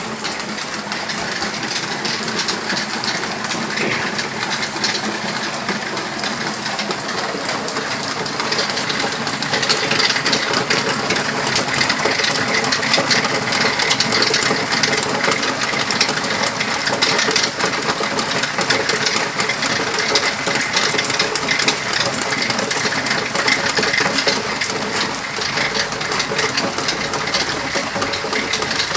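Rain falling steadily as a dense, continuous patter of drops, growing a little louder about ten seconds in.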